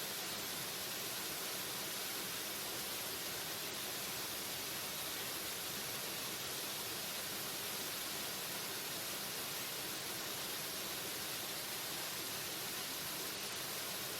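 Waterfall: falling water rushing steadily and evenly, without a break or change.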